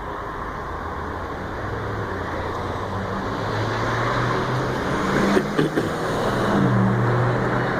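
Motor vehicle running, a steady rumble with a low engine hum that grows slowly louder.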